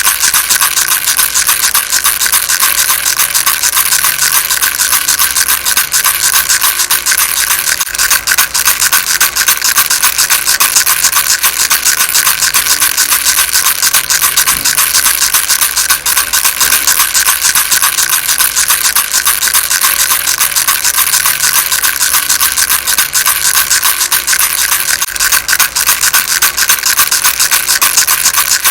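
A baby rattle shaken steadily and quickly, giving a continuous dense, scratchy rattling of many small rapid clicks.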